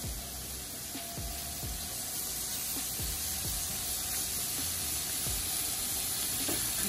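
Shrimp sizzling steadily in hot oil in a cast iron skillet on high heat, with background music underneath.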